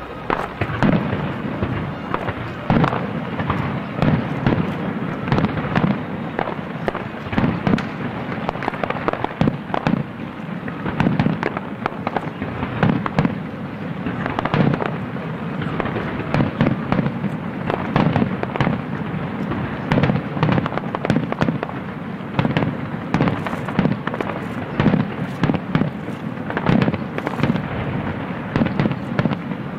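A fireworks display: shells bursting in rapid succession, many overlapping bangs each second.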